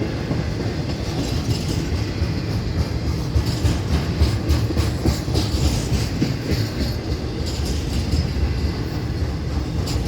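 Loaded Florida East Coast Railway intermodal freight train rolling past: a steady low rumble of the cars with a run of irregular clicks and clacks from the wheels on the rails.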